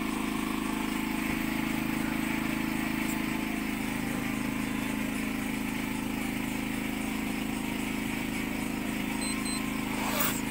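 An engine running steadily at idle, a constant unchanging hum, with a brief burst of noise near the end.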